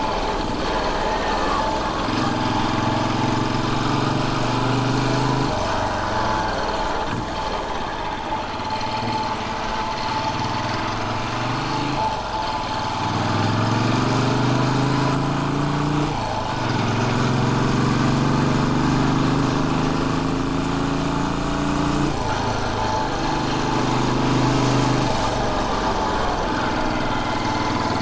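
Royal Enfield Bullet 500's single-cylinder four-stroke engine running under way. Its note holds steady, breaks off and picks up again several times as the gears change, with one rising pull a little before halfway through. An even rush of wind and road noise runs underneath.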